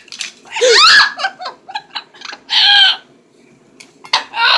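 Pet parrot making laugh-like calls: a loud pitched call about half a second in and another about two and a half seconds in, with short choppy sounds between and a fresh call just before the end.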